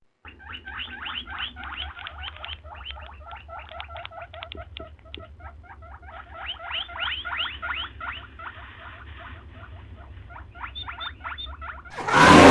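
A small animal giving rapid runs of short, high squeaky chirps, many a second, over a steady low rumble. A loud, different sound cuts in at the very end.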